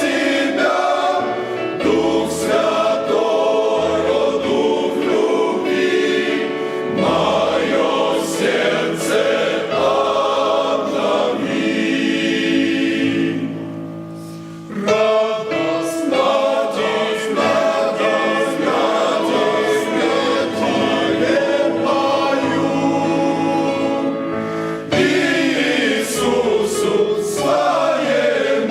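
Church choir singing a Christian worship song with instrumental accompaniment, in phrases with a short pause about halfway through.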